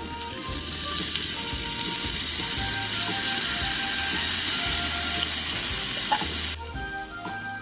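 Food frying and sizzling in a hot pan, a steady hiss that cuts off abruptly near the end, with background music underneath.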